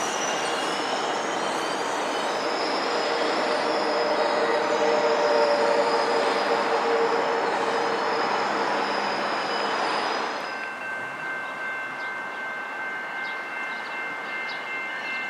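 Train cars rolling past close by, a steady rumble with squealing wheels. About ten seconds in it cuts to a railroad grade crossing whose warning bell rings steadily.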